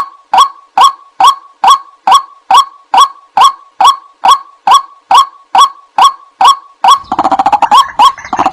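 White-breasted waterhen calling: a loud, even series of short honking notes, a little over two a second. About seven seconds in, a faster, overlapping run of calls joins in.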